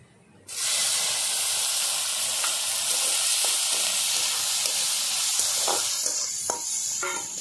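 Strips of fresh coconut hit hot oil tempered with black mustard seeds and dried chillies in an iron kadai, setting off a sudden loud sizzle about half a second in that holds steady. A few clinks of a metal spatula stirring the pan come near the end.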